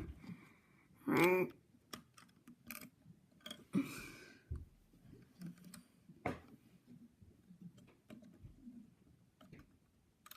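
Small plastic clicks and knocks of Lego pieces being handled and coming loose. A short, pitched vocal sound comes about a second in, and a brief scraping rustle comes about four seconds in.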